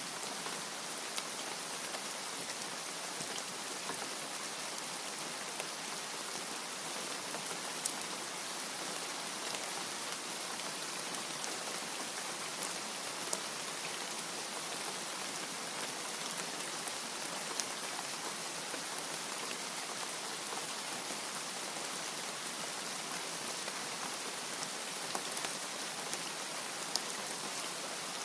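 Steady heavy rain: a continuous even hiss of falling rain with scattered sharper drop ticks now and then, and no thunder.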